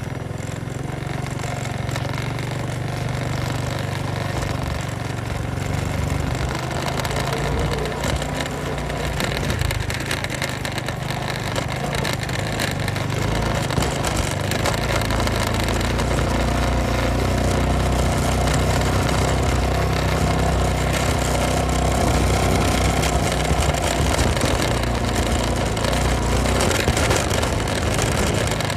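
Honda Supra X motorcycle engine running as the bike is ridden, with wind and road noise. The engine note grows stronger and slightly louder about halfway through.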